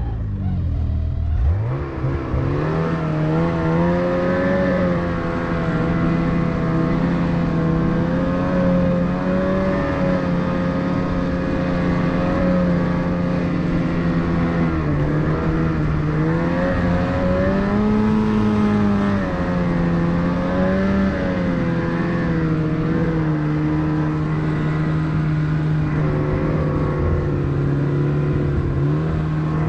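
Gas-powered rope winch's small engine revving up about two seconds in, then running steadily under load as it hauls a dead snowmobile on the rope, its pitch wavering slightly as the load changes.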